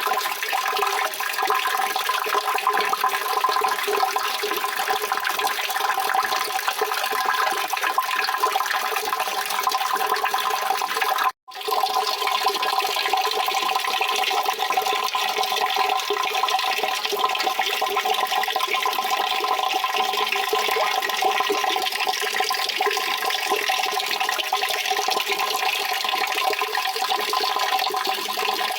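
Steady rushing, splashing water sound, even and unbroken, with no low rumble. It cuts out completely for a split second about eleven seconds in, then resumes the same.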